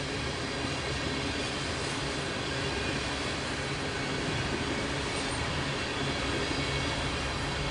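Empty crude oil tank cars of a freight train rolling past, a steady rumble of steel wheels on the rails.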